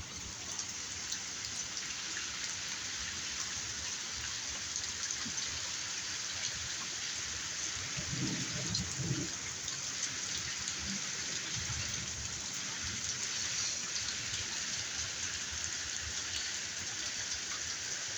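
Steady rain falling and pattering on surfaces, with two short low sounds about halfway through.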